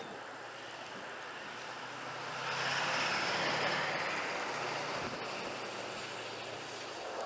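A vehicle passing by, its engine hum and road noise swelling about two and a half seconds in and slowly fading.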